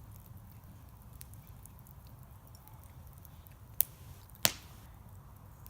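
Bonfire crackling faintly, with scattered small ticks and two sharp pops about four and four and a half seconds in.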